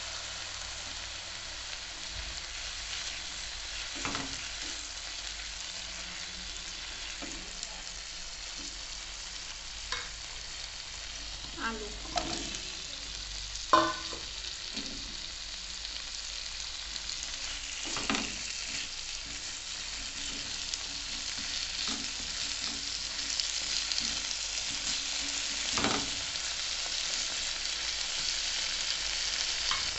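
Spice paste sizzling in hot oil in a nonstick frying pan and being stirred with a wooden spatula, with a few sharp knocks against the pan. About halfway through, raw potato wedges go into the pan, the loudest knock, and the sizzling grows louder toward the end.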